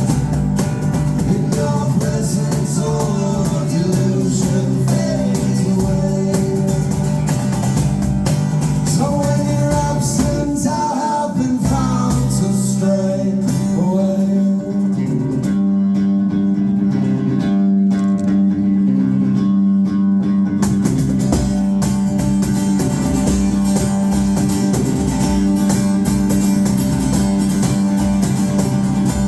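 Live rock band playing a song, with guitar, bass and singing.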